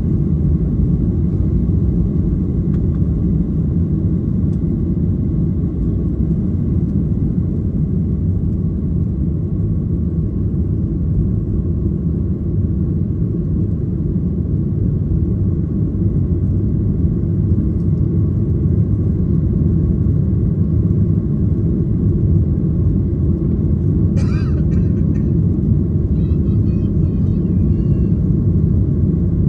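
Steady roar of a Boeing 737's jet engines and rushing air, heard inside the cabin at takeoff power, with a faint steady whine above the rumble. A short higher-pitched sound near the end.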